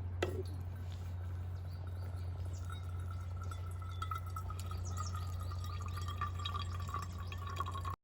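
Liquid trickling: a short drip-like click about a quarter second in, then a faint wavering, slightly falling tone for the rest of the time, over a steady low hum.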